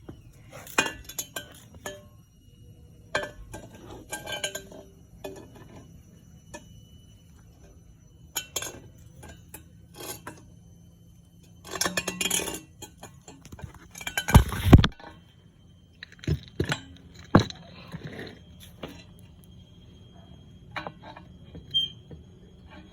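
Metal parts clinking, knocking and scraping as an exhaust is fitted by hand to a small two-stroke single-cylinder engine, with a louder clatter about fourteen seconds in.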